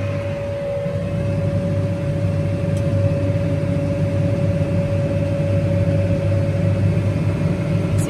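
Tractor and round baler running steadily, heard from inside the tractor cab: a low engine drone with a constant high whine above it.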